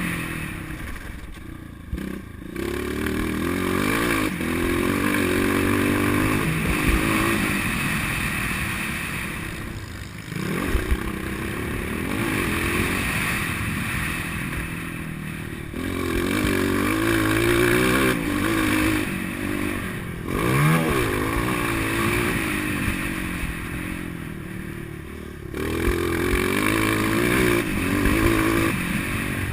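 Motocross bike engine revving hard, the revs climbing through the gears and dropping sharply several times as the throttle is rolled off and opened again.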